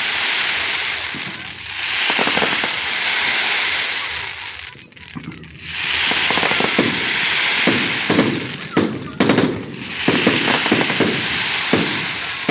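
Fireworks display: volleys of gold-tailed comets hissing as they rise, in four waves of two to three seconds each with a brief lull between, and sharp pops and crackles through the middle waves.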